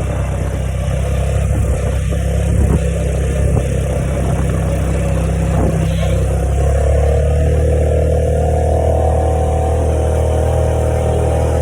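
Small automatic motorbike running while being ridden, with a deep steady rumble; its engine note rises a little and holds higher from about halfway through.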